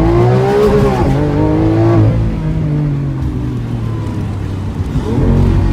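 Sports car engine accelerating hard, its pitch climbing and then dropping sharply twice in the first two seconds as it shifts up, then settling into a lower steady drone before a brief rev near the end.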